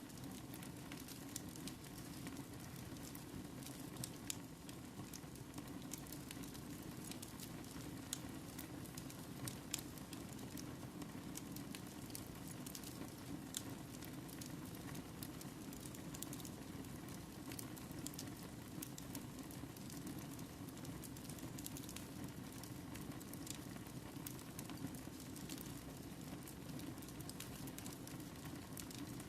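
Wood fire burning in a fireplace: a steady low rush under frequent small crackles and pops.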